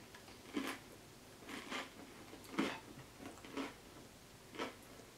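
Close-miked chewing of a mouthful of creamy Caesar bowtie pasta salad: soft wet mouth sounds, about one or two a second, some a little louder than others.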